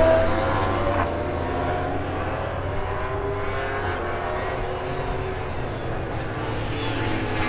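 Superbike engines running on the race circuit, several engine notes at once that rise and fall slowly in pitch.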